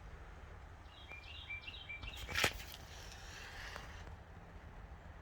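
Faint outdoor background with a quick run of short, high bird chirps between about one and two seconds in, and a single sharp click or knock just after.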